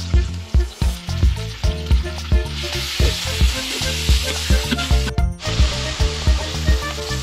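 Sliced beef sizzling in oil in a hot wok with shallots and garlic as it is stirred with a metal spatula. The sizzle grows louder about two and a half seconds in and breaks off briefly near five seconds. Background music with a steady beat plays under it.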